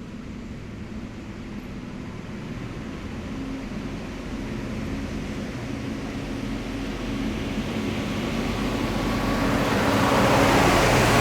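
A heavy military vehicle's diesel engine and running gear approach along the road, growing steadily louder, and pass close by near the end.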